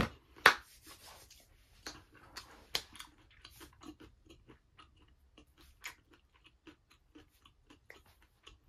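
A person chewing a mouthful of food close to the microphone: many short, irregular crunching clicks, the loudest about half a second in and another just before three seconds.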